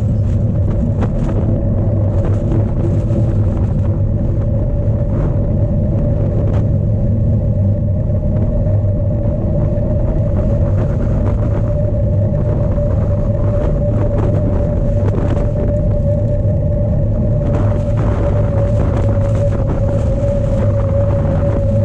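Strong wind buffeting the microphone of a cyclocross bike's onboard camera while riding: a loud, steady low rumble with a constant hum over it and scattered short knocks from the bike.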